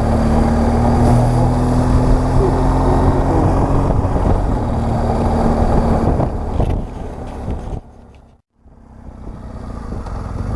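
BMW R1200GS Adventure's flat-twin engine running steadily on the move, under a rush of wind and road noise. About eight seconds in the sound fades almost to nothing, then builds back up.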